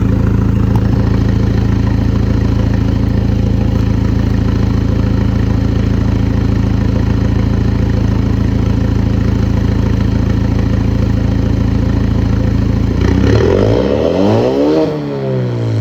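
Ford Ranger's turbocharged 2.3-litre EcoBoost four-cylinder idling steadily through a loud MRT aftermarket exhaust, then revved once about thirteen seconds in, the pitch climbing and falling back toward idle near the end.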